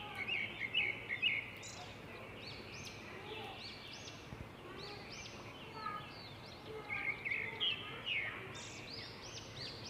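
Small birds chirping repeatedly in the background, many short arched chirps with busier bursts of chirping about a second in and again about seven seconds in.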